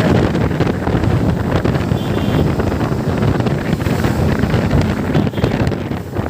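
Heavy wind buffeting the microphone on a moving motorcycle, with the engine running underneath.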